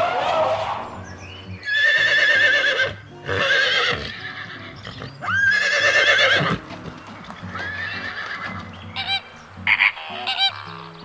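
Horse whinnying several times, each call about a second long with a quavering pitch, with shorter calls near the end. Background music with sustained notes plays underneath.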